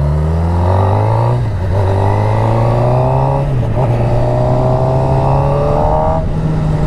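Suzuki GSX-R600's inline-four engine accelerating hard, its pitch rising in three pulls with short breaks at upshifts about a second and a half and three and a half seconds in, then holding steady near the end.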